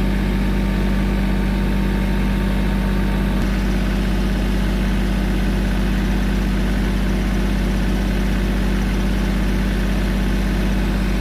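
A backhoe's engine running steadily at an even speed.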